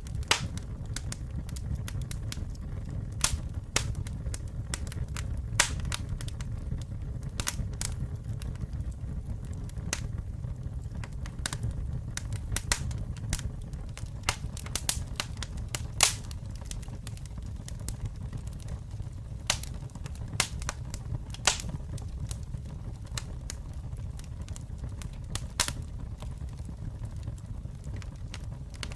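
Wood campfire burning, with a steady low rumble of flames and frequent sharp, irregular crackles and pops from the burning logs.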